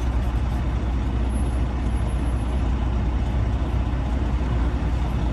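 Steady low diesel rumble of a Freightliner Classic XL semi truck, heard from inside the cab while creeping in slow traffic.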